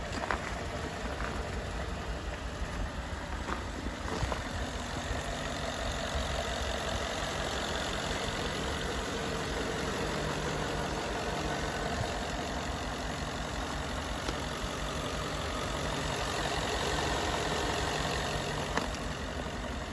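2013 Ford F-150 pickup's engine idling steadily.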